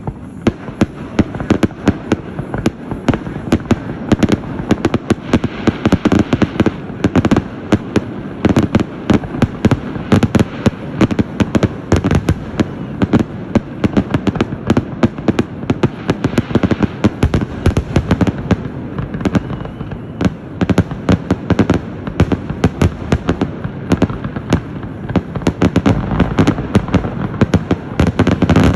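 Fireworks grand finale: a rapid, continuous barrage of bangs and booming shell bursts, several a second, overlapping into a steady rumble.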